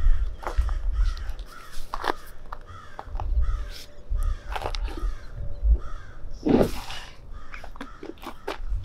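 A bird calling in a quick run of short calls, about two a second, over scattered clicks and low thumps.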